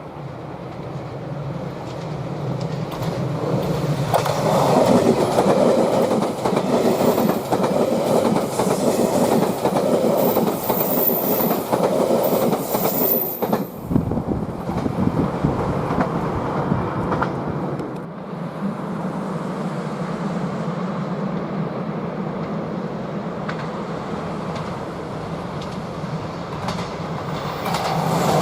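JR West 381 series electric limited express train running past, its wheels clattering over the rail joints. It gets louder about four seconds in, eases off around fourteen seconds, then runs on more steadily before swelling again at the very end.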